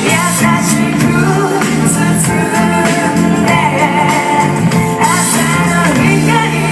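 A band playing live music with a singer's voice over it, loud and continuous.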